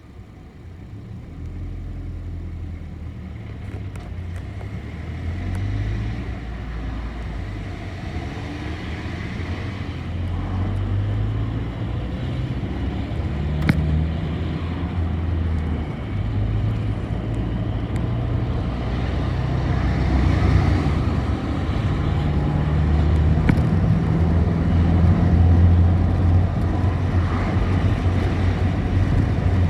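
Bus engine and running noise heard from inside the bus as it pulls away and drives on. The engine note climbs and drops back in steps several times, as with gear changes, and there are a few short rattles.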